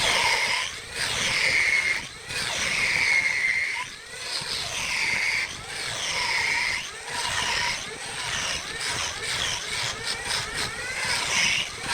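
Turning tool cutting wood spinning on a wood lathe, in repeated passes every second or two, each pass a high-pitched scraping hiss.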